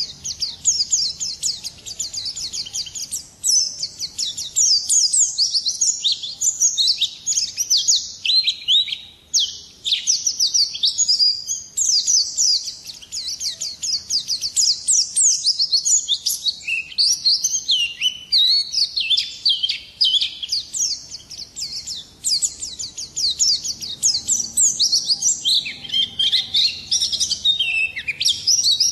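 Pleci (white-eye) singing a long, unbroken twittering song: rapid high chirps, many falling quickly in pitch, packed densely with only brief breaks.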